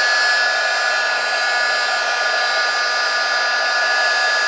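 A heat gun or hair dryer running steadily, with a constant whine over the blowing air, drying acrylic paint on paper.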